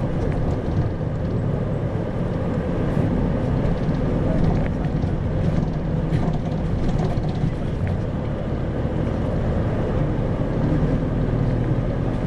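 Isuzu Erga (2RG-LV290N4) city bus running steadily, its four-cylinder diesel engine humming under a continuous road rumble, heard from inside the passenger cabin.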